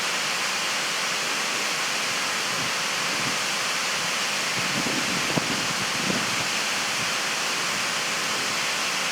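Waterfall rushing in a steady, unbroken roar of falling water, with two faint brief knocks around the middle.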